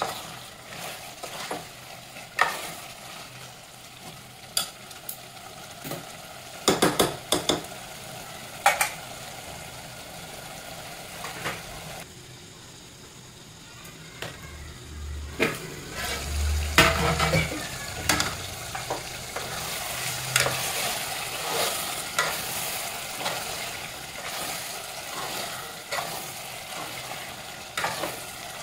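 Chicken pieces sizzling as they fry in masala in an aluminium pot, with a spoon scraping and knocking against the pot as it is stirred. About halfway through the sizzle briefly drops while a steel plate covers the pot, then a few loud metal clinks as the plate is handled, and the frying sounds livelier after.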